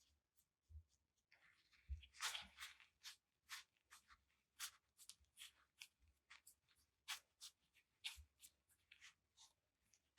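Faint, irregular scratching and light clicks from hand work in a workshop, with a longer scraping stretch about two seconds in.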